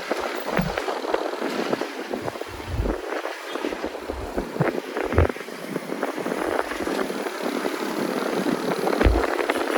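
Wind rush and road noise of a moving motor scooter, a continuous rushing sound broken by frequent short knocks and a few low thumps.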